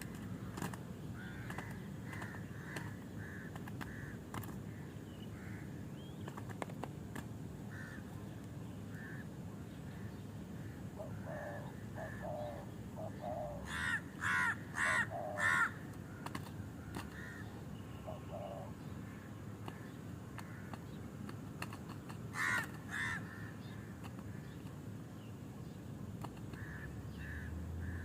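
Wild birds calling: soft, scattered chirps, then a run of four loud, harsh calls about halfway through and two more a few seconds later.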